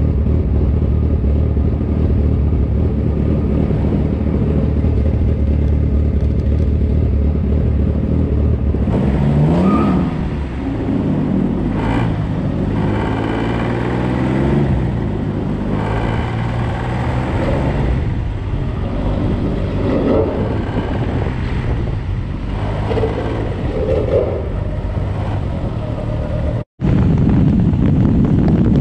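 Suzuki Hayabusa's inline-four engine idling steadily, then revving as the bike pulls away about nine seconds in, its pitch rising and dropping several times as it shifts up through the gears, with wind noise on the helmet-mounted microphone.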